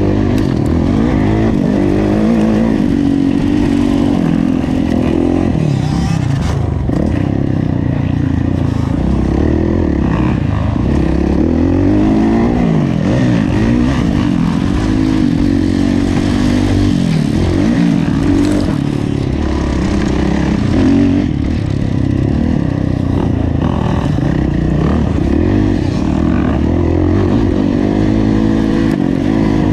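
Kawasaki KX450F four-stroke single-cylinder motocross engine ridden hard, its pitch climbing and dropping again and again as the throttle is opened and closed, heard close up from the bike. Light clattering mixes in.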